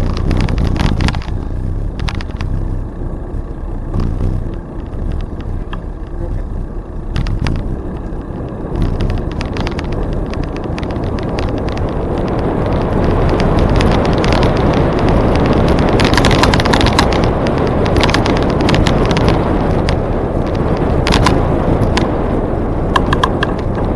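Wind rushing over the microphone and the rolling noise of a bicycle on the trail, with scattered clicks and rattles. The rushing grows louder in the second half.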